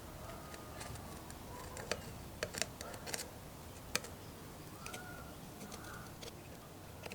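Work on small parts with hand tools: a handful of sharp clicks and taps, bunched between about two and four seconds in, with faint birdsong behind.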